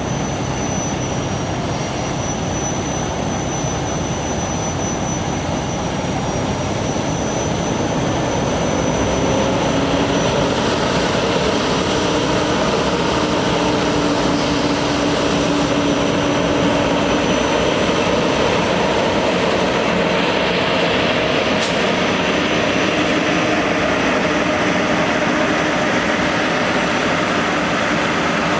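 A truck engine running steadily, with a thin high whine over it. It grows a little louder about ten seconds in.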